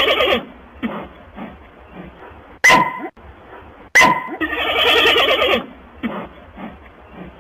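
Panda calls: a long wavering bleat at the start and another in the middle, with softer short calls in between and two sharp high squeaks just before the second bleat.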